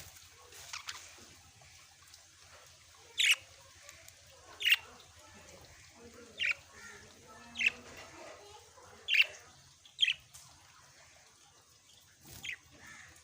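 Small pet parrots giving short, sharp calls, about seven of them spaced a second or two apart.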